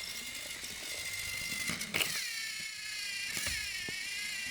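Small electric motor of a battery-powered toy train whining steadily. Its pitch dips and recovers after sharp knocks about two seconds in and again a second and a half later, with a few light clicks near the end.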